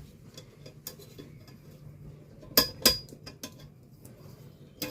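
Two sharp metallic clinks about a third of a second apart, about two and a half seconds in, with a brief ring after them, among faint handling clicks: a metal roti tawa (flat griddle) being handled while it is measured.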